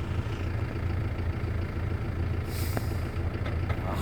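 Off-road 4x4's engine running steadily at low revs, with a brief hiss about two and a half seconds in.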